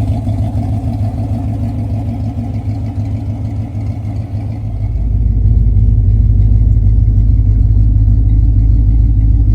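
1976 Corvette's 350 small-block V8 with Boom Tubes exhaust, idling steadily. About five seconds in it becomes louder and deeper.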